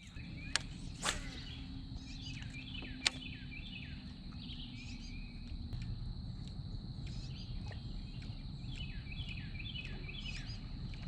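Outdoor ambience of birds singing in repeated phrases of short, quick, downward-sweeping chirps, over a low steady rumble and a faint high steady hum. A few sharp clicks come in the first three seconds.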